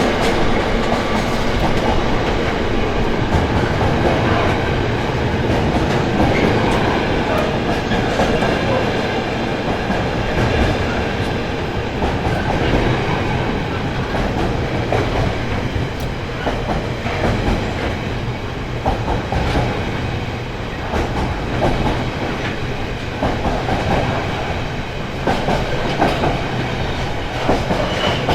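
A long intermodal freight train of container wagons rolling past with a steady rumble, its wheels clicking irregularly over rail joints and pointwork.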